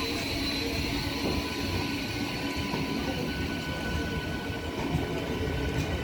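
Electric multiple unit (EMU) local train running on the track: a steady rumble of wheels and cars, with a thin steady whine over it.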